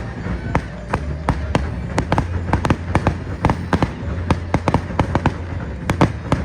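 Fireworks going off in a rapid, irregular string of sharp bangs and pops, several a second, over a low rumble.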